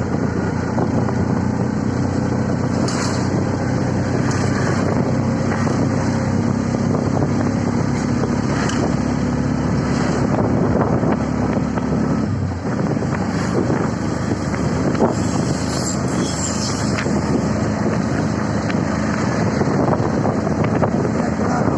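CNG auto-rickshaw's engine running steadily under wind and road noise while riding. The engine note falls away about twelve seconds in, as if easing off.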